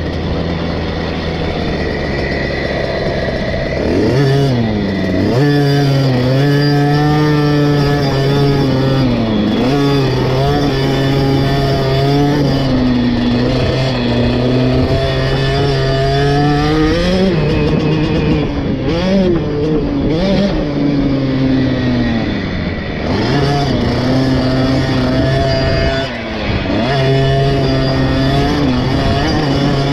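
KTM 50 SX's small two-stroke single-cylinder engine, ridden hard around a motocross track. The revs climb and fall constantly with the throttle, with several deep dips where the rider backs off before revving up again.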